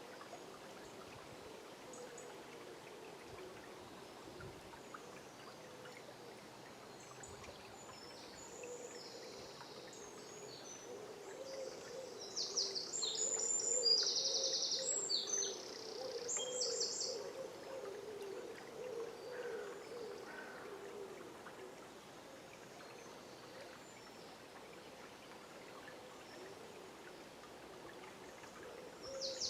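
River water flowing steadily, with songbirds singing quick, high trilled phrases over it, loudest about halfway through.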